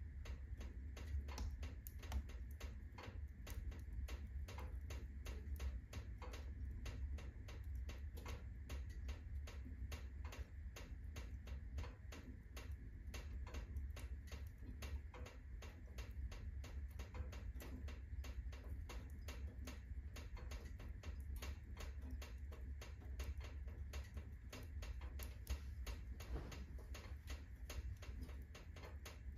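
Wood fire burning hard in a fireplace, crackling with many irregular pops over a low, steady rumble.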